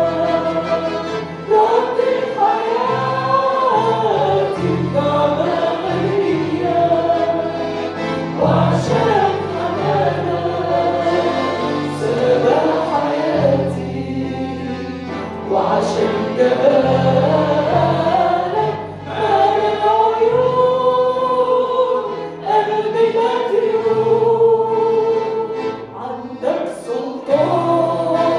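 Christian worship song: voices singing a melody over sustained low accompaniment chords that change every couple of seconds.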